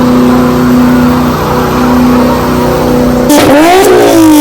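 A car engine held loud at steady high revs for about three seconds, then revved up and down in quick blips near the end.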